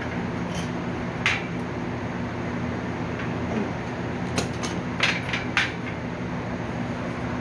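Steel bed-frame parts knocking and clanking as the frame is worked on: one sharp clank about a second in, then a quick cluster of knocks between four and six seconds, over a steady mechanical hum.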